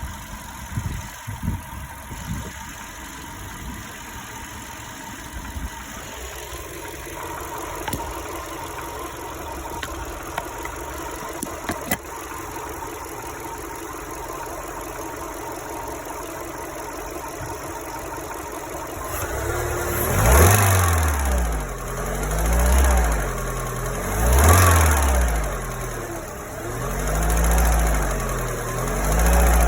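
VW 1.6 BFQ four-cylinder petrol engine idling steadily, then revved briefly four or five times in the second half. The owner is asking what is making a knocking noise in it.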